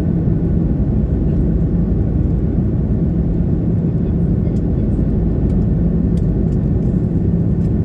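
Steady jet engine and airflow noise heard inside the cabin of an Airbus A330-300 powered by GE CF6-80 engines, a constant deep rumble with a steady low hum and no change in level.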